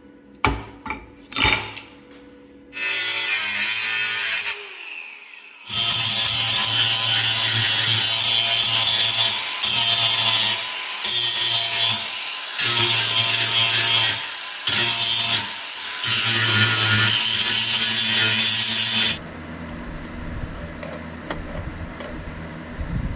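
A few knocks, then a power tool running loud in bursts: one short run, then a long stretch with several brief pauses, stopping about 19 seconds in. A quieter low hum follows.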